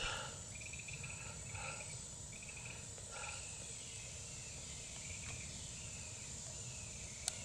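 Wild swamp birds giving short, repeated chattering calls, mostly in the first few seconds, over a steady high-pitched insect drone.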